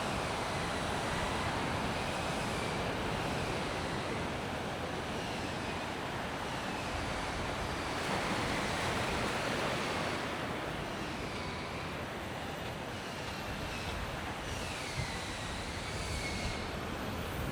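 Mediterranean surf washing onto a sandy beach, a steady rushing wash with faint thin whistling glides above it.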